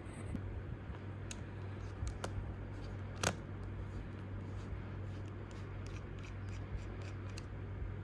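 Scattered small clicks and taps of hands and tools handling a MacBook, with one sharper click about three seconds in, over a steady low hum.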